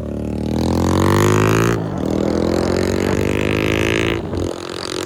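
Motorcycle engine revving: the pitch climbs over about two seconds, dips briefly, then holds steady before cutting off near the end.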